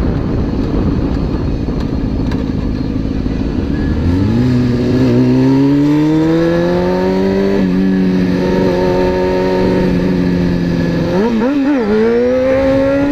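Honda CBR600F4i sport bike's inline-four engine, heard from the riding position. It runs low and rough at first, then about four seconds in it pulls away with the revs climbing steadily. The revs level off and hold through the middle, waver briefly near the end, then rise again.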